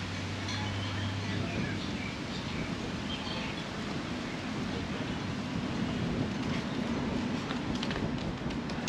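Outdoor background noise: a steady rumble with a low engine hum that fades out after about a second and a half, and a few faint bird chirps in the first few seconds.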